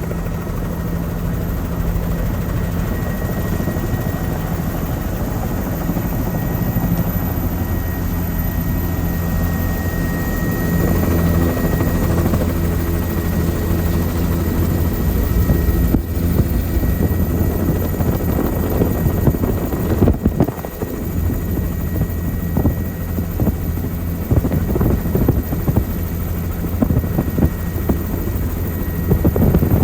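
Helicopter rotor and turbine drone heard from aboard in flight, steady and loud, with a faint steady whine in the first part. From about the middle on, irregular buffeting rumbles join in over the drone.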